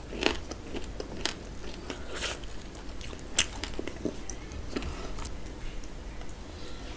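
Close-up mouth sounds of chewing and smacking a mouthful of rice and curry, with irregular wet clicks, and soft squelching of fingers mixing rice and gravy on a steel plate.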